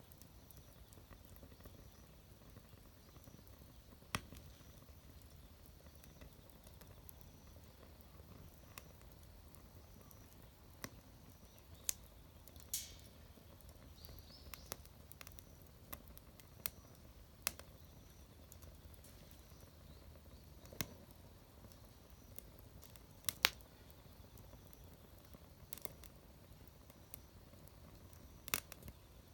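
Wood fire burning in a fire pit: irregular sharp crackles and pops, a few seconds apart, over a faint steady background.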